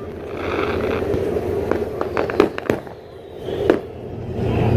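Fireworks going off: a string of sharp bangs and cracks, most of them packed between about one and a half and three seconds in and one more near the end, over a low steady rumble.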